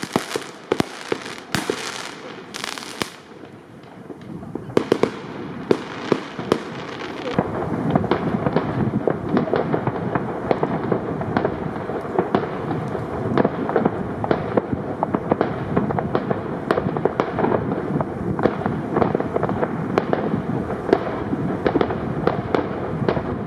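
Fireworks going off: a few separate sharp bangs with a crackling hiss in the first seconds, then, from about four seconds in, a dense continuous barrage of many overlapping bangs and crackles.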